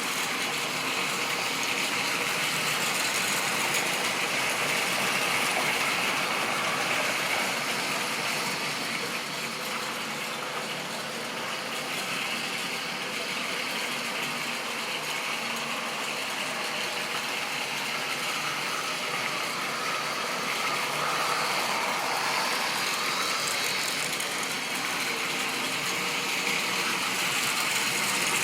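Model train running along the track: the electric motor's whir mixed with wheels rattling over rails, steady, with the loudness slowly rising and falling as it moves around the layout.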